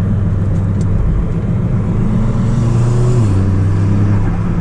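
Audi S3 8P's turbocharged 2.0 TFSI four-cylinder, fitted with an aftermarket downpipe, pulling under way. The engine note climbs slowly, then drops suddenly a little past three seconds in.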